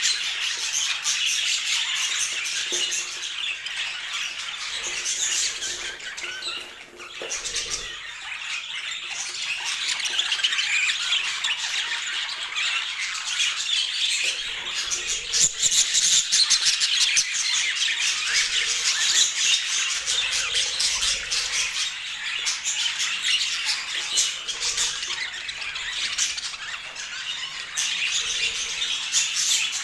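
A flock of budgerigars chattering and squawking continuously, many quick high notes overlapping, with a short lull about seven seconds in.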